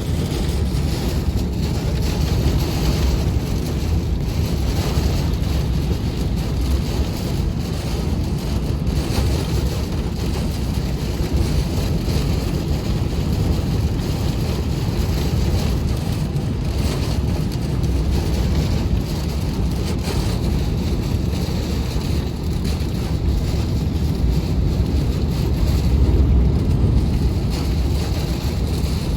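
Severe thunderstorm: strong wind rushing and buffeting the microphone, with hail and heavy rain pelting down. The noise is steady and swells slightly near the end.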